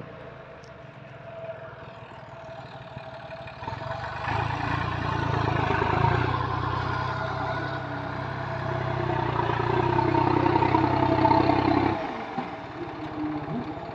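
Tractor engine running, going up to a louder, harder-working note about four seconds in and dropping back to a lower, quieter run near the end.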